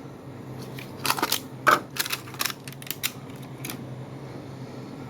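Several sharp clicks and taps from handling a diecast toy car and its plastic packaging, coming thick for a couple of seconds and stopping well before the end, over a steady low hum.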